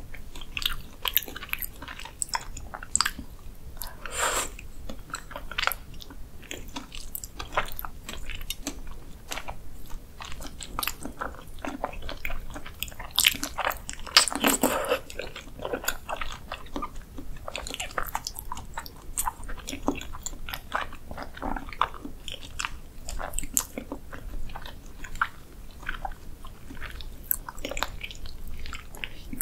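Close-miked biting and chewing of raw cow spinal cord: irregular mouth clicks and smacks, with a few louder bites around 4 and 14 seconds in.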